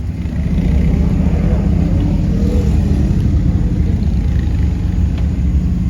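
Race car engine running steadily at a low, rumbling idle, growing louder about half a second in.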